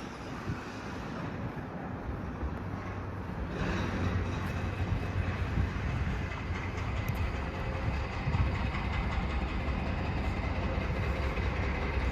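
Heavy demolition machinery running: a steady mechanical rumble that gets louder about three and a half seconds in.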